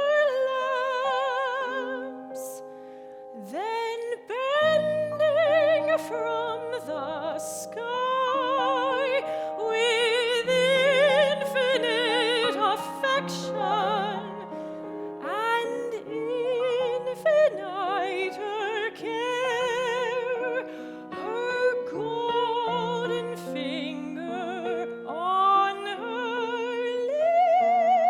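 Classical soprano singing a slow art song with wide vibrato, accompanied by piano. The voice drops away briefly a couple of seconds in, then resumes.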